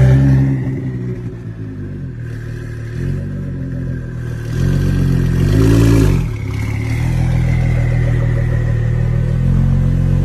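Car engine running with a steady low note, revved twice: briefly about three seconds in, then more strongly about five seconds in, the pitch rising and falling each time.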